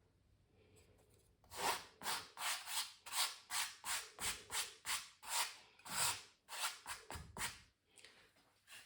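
Pencil scratching back and forth across canvas in quick, even strokes, about three a second. The strokes start about a second and a half in and stop near the end.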